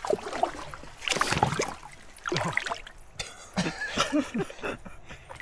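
Water splashing and dribbling as a flathead catfish is handled beside a kayak, with a short low croak from the fish.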